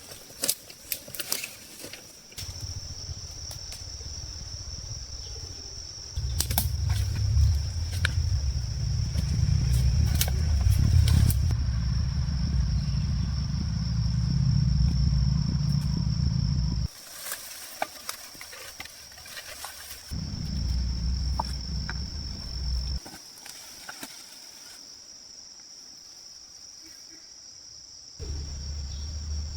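Insects, crickets or cicadas, keep up a steady high-pitched buzz. A loud low rumble cuts in and out in several long stretches, and there are a few sharp clicks near the start.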